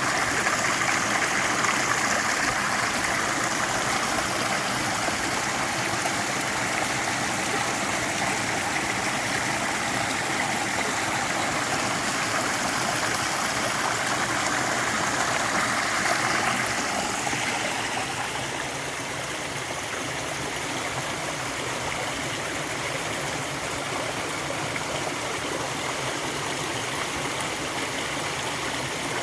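Clear mountain stream flowing steadily over rocks. About two-thirds of the way through it becomes a little softer and less hissy.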